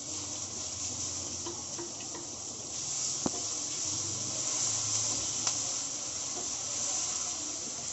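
Grated garlic frying in hot oil with cumin seeds in a nonstick pan: a steady high sizzling hiss, with a few light taps and scrapes of a wooden spatula stirring it, the sharpest about three seconds in.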